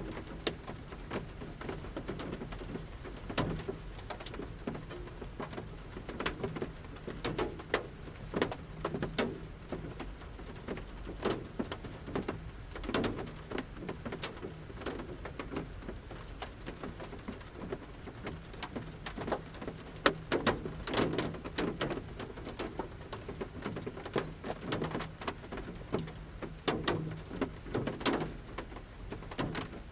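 Large raindrops falling from the forest canopy onto the roof of a camper van, heard from inside: irregular taps and knocks at uneven intervals, with one sharper, louder hit about two-thirds of the way through.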